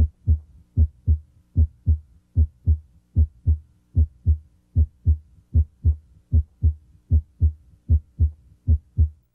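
Heart sounds heard through a stethoscope at the mitral area: a regular lub-dub of S1 and S2, about twelve beats at roughly 75 a minute. S1 comes from closure of the mitral valve and is usually the louder of the pair at this site.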